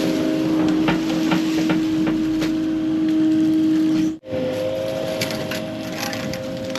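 Compact excavator's diesel engine running steadily under work, with a constant hydraulic whine and scattered sharp cracks and knocks from brush and rock being worked. The sound breaks off for an instant about four seconds in and resumes at a slightly different pitch.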